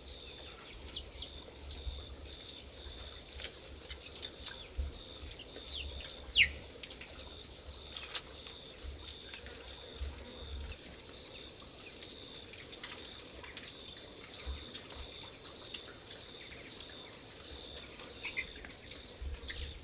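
Steady high-pitched drone of insects such as crickets, with a few short falling bird chirps in the first several seconds and one sharp click about eight seconds in.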